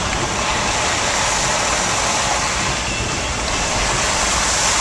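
Steady road noise of a car driving on a rain-soaked road: an even hiss from tyres on wet pavement and rain, over a low rumble.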